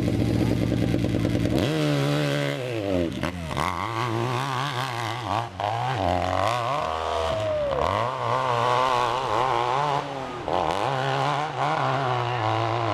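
Hill-climb motorcycle engine, steady at first, then from about a second and a half in revving up and down again and again as the throttle is worked.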